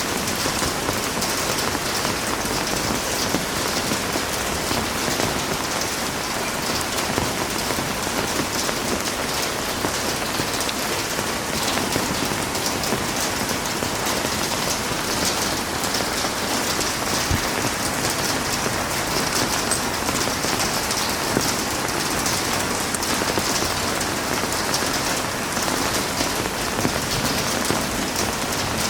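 Heavy rain falling steadily, a dense even hiss of drops with a fine patter of individual drop hits.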